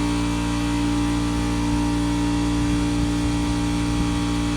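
Steady mechanical hum with a strong droning tone.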